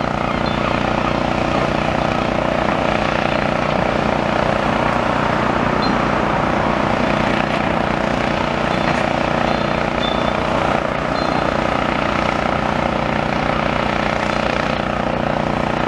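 Steady drone of a demolition excavator's diesel engine working as its crusher attachment chomps into a brick building, with a few faint knocks of breaking masonry and brief high squeaks.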